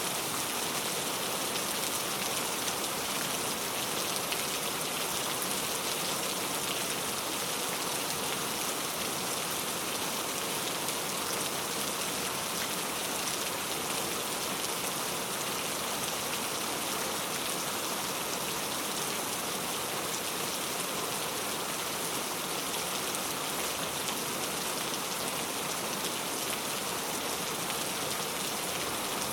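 Steady rain falling, a constant even patter of drops on a surface with no let-up or change.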